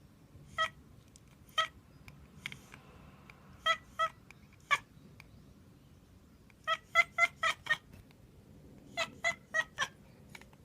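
A cat's short, clipped chirps. They come singly at first, then in quick runs of four to six: the chattering a cat makes while watching a bird it cannot reach.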